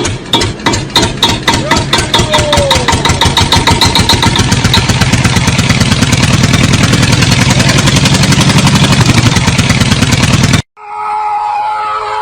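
An engine running, its sharp pulses speeding up from a few a second to a fast steady pulsing and growing louder over the first few seconds, then cutting off suddenly near the end.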